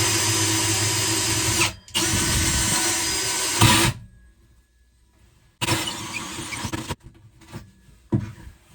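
Power drill boring a hole: two runs of about two seconds each with a brief stop between, then after a pause a shorter burst, followed by a few knocks.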